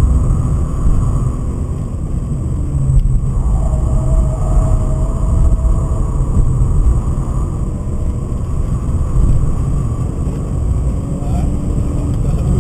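BMW 528i's M52B28 2.8-litre straight-six engine running hard at track speed, heard from inside the cabin with tyre and wind noise.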